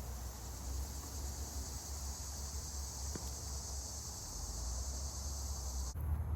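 Steady high-pitched insect chorus, a continuous shrill trill that cuts off abruptly near the end, over a low rumble.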